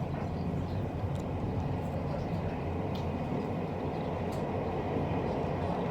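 Mouth and eating sounds, a few faint sharp clicks, over a steady low background rumble.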